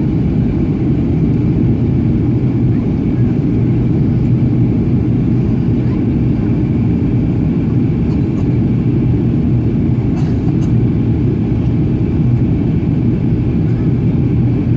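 Steady, even low drone inside the cabin of a Boeing 737-800 NG in flight on approach: rushing airflow and its CFM56 engines, with a faint high steady whine above it.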